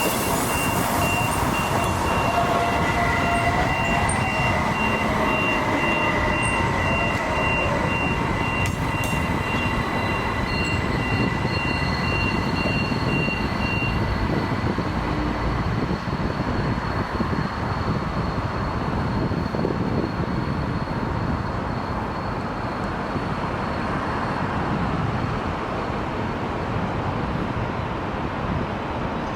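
Rail vehicle running by with a steady rumble and rail noise. A high, evenly pulsed beeping runs through the first half and stops about halfway, with a faint steady whine over the rumble.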